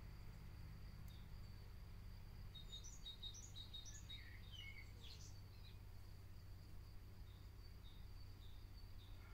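Faint outdoor background in which a small bird chirps a quick run of notes for a few seconds, starting about two and a half seconds in, over a steady thin high tone and a low rumble.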